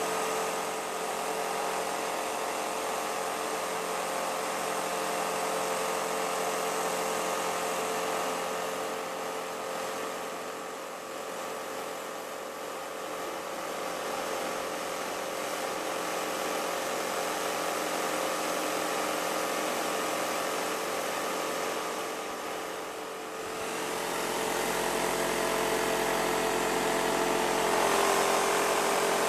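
Electric fan heater's blower motor and fan running steadily with a whirring hum at its 2000 W setting. The sound grows fainter and louder again every ten seconds or so as the heater swings from side to side.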